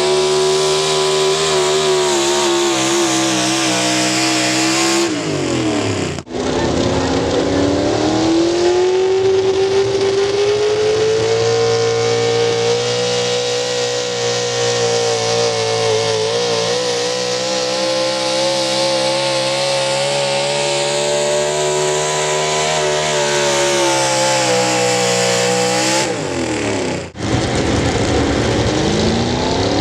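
Competition pulling vehicle's engine running at high, fairly steady revs under heavy load. The revs fall away about five seconds in and again near the end, each drop ending in an abrupt break before the engine is heard running high again.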